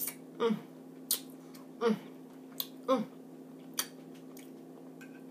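Eating sounds: a handful of short mouth smacks and clicks while chewing, spaced about half a second to a second apart and stopping about four seconds in. A steady low hum runs underneath.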